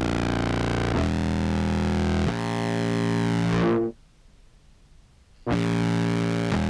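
Contrabass clarinet samples played through fuzz and envelope-filter pedals: distorted, held low notes that change pitch a couple of times, then cut off suddenly for about a second and a half before another held note comes in.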